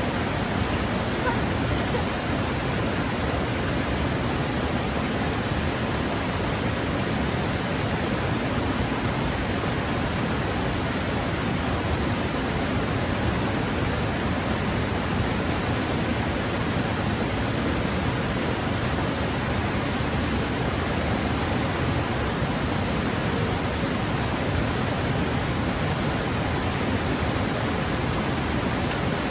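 Rushing stream water, a steady, unbroken rush of noise throughout.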